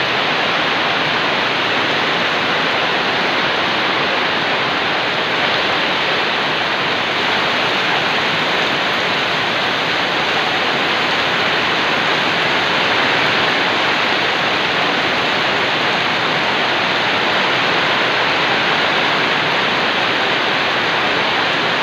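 Heavy storm rain pouring down: a loud, steady hiss of dense rainfall.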